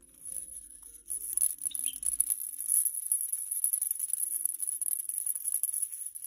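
A maraca being shaken in quick, uneven rattles, starting about a second in.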